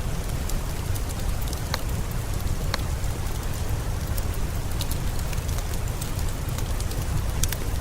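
Steady rain mixed with a crackling wood fire: a constant hiss over a deep low rumble, with scattered sharp pops and ticks.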